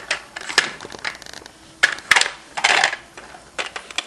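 Small hard toy cake and tea-party pieces clicking and clattering together as a child handles them, with scattered knocks and a denser clatter about two seconds in.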